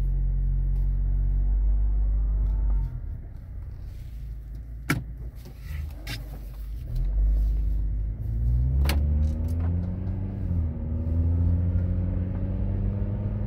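2010 Acura TSX engine heard from inside the cabin while driving: the engine note climbs as the car accelerates and drops back a few times as the automatic gearbox shifts up. Two sharp knocks, about five seconds in and again near nine seconds.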